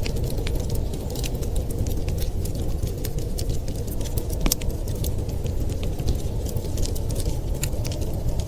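Wood fire crackling in a fireplace, with frequent small, irregular pops and snaps over a steady low rumble.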